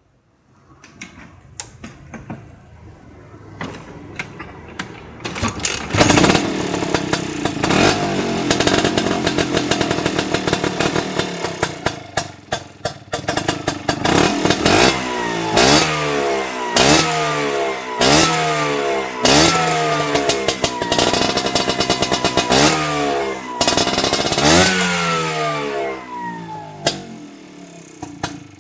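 Motorcycle with a short SITO aftermarket racing exhaust: the engine runs at a steady lower speed, then the throttle is blipped about ten times, roughly once a second, each rev falling back in pitch. Near the end it settles back to idle.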